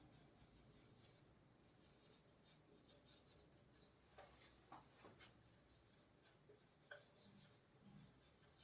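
Faint scratching of a pen writing, in short broken strokes with a few light taps.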